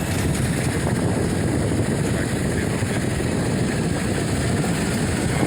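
Steady rumble of a small truck driving downhill, heard from inside the cab: engine, tyre and wind noise blended into a constant roar-like hum.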